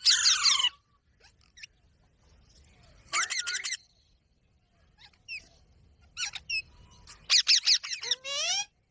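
Parrot calling in short bursts of high-pitched, rapidly warbling chirps and squawks with quiet pauses between them: one at the start, one about three seconds in, a brief one about six seconds in, and the longest near the end.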